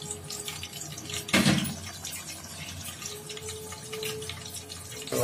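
Ginger-garlic, onion and green-chilli paste sizzling and crackling in hot oil in an aluminium pot, frying on its way to browning, with a louder brief burst about a second and a half in.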